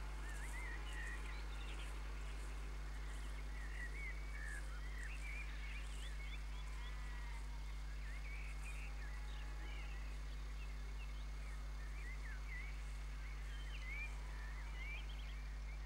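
Birds singing: many short chirps and twittering phrases overlapping, over a steady low hum.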